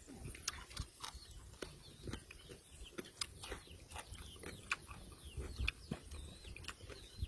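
Wet chewing and lip-smacking on raw fish and papaya salad: a run of irregular sharp clicks and short squelchy squeaks.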